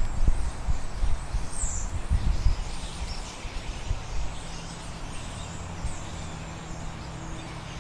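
A flock of small birds chirping and calling, scattered short high chirps over one another. Low rumbling wind or handling noise on the microphone fills the first couple of seconds, and a steady low hum sets in about halfway through.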